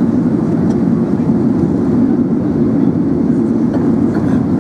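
Steady hum of an Airbus A380 in flight, engine and airflow noise heard inside the cabin, with a few faint ticks.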